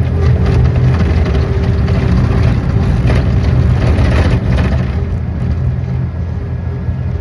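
An engine running steadily, with a louder, noisier stretch from about three to four and a half seconds in.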